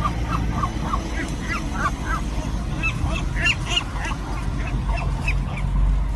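Seagulls calling over and over during a dominance squabble: a rapid run of short, harsh calls, several a second, that thins out near the end, over a steady low rumble.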